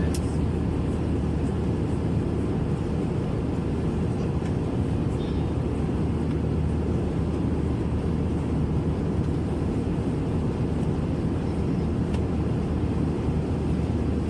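Steady cabin noise inside an Airbus A321-200 airliner: the low, even rush of its twin jet engines and the airflow, holding at one level throughout.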